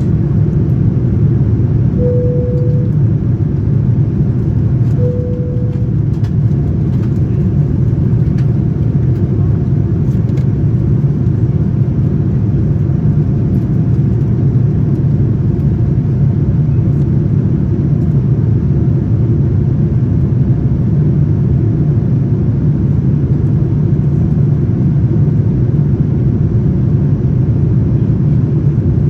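Steady, loud rumble of a Boeing 787-9's engines and airflow heard inside the passenger cabin. Two short single-pitch tones sound about three seconds apart a couple of seconds in.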